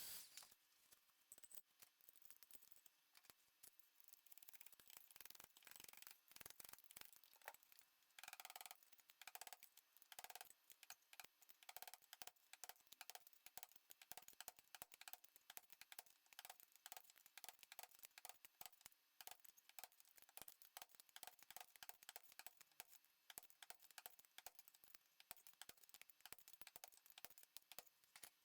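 Quiet, rapid, irregular clicking and clinking of metal parts being handled during machine reassembly, with a few short ringing notes about eight to twelve seconds in.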